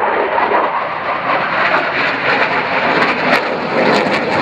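Jet roar from a Eurofighter Typhoon's twin EJ200 turbofans as it flies a display manoeuvre, a steady loud rushing noise with sharp crackles in the second half.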